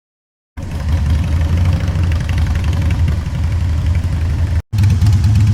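Motorcycle engine idling with a steady low, pulsing beat, starting abruptly about half a second in and breaking off for an instant near the end.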